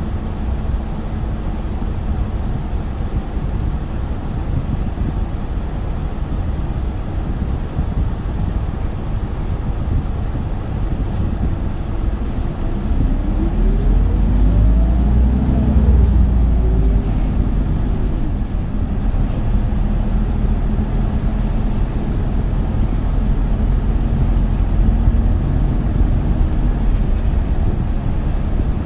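Isuzu Erga city bus's four-cylinder diesel engine and running noise heard from inside the cabin: a steady low rumble. About halfway through, the engine note climbs and the sound grows louder as the bus accelerates, then settles into steady running.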